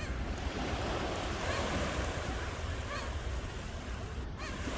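Ocean surf washing steadily onto the shore. A few short, high calls sound over it every second or so.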